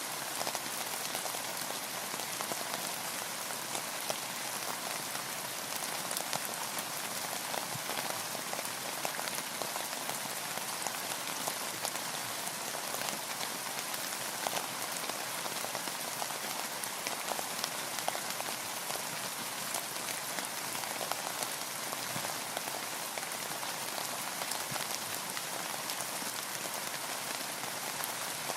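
Steady rain falling on a boat, with a dense patter of individual drops.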